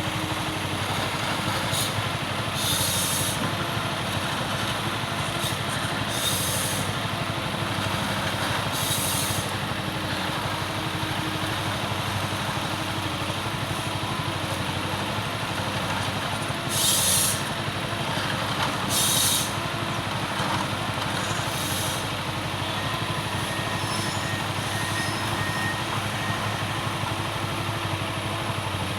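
Forestry machine working in eucalyptus, its engine running steadily, with short bursts of hiss five times.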